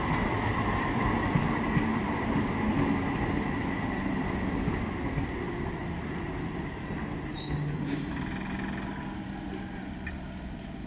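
Electric multiple unit (EMU) suburban train running along the track, with the rumble of its wheels on the rails and a thin steady whine over it. It grows gradually quieter as the train pulls away.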